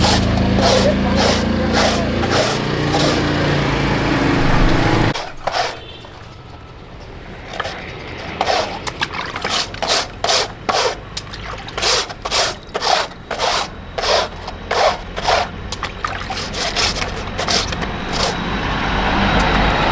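A steady machine hum that stops abruptly about five seconds in, followed by repeated short scraping strokes, roughly one or two a second.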